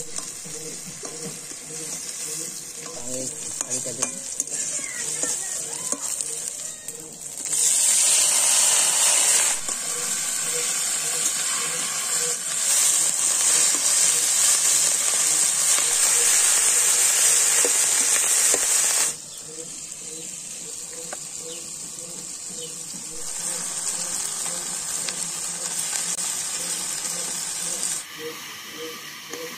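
Onion leaves and tomatoes frying in hot oil in an iron kadai, sizzling steadily while a metal spatula stirs them. The sizzle jumps much louder about seven seconds in, as fresh vegetables hit the oil, and eases back down about ten seconds later.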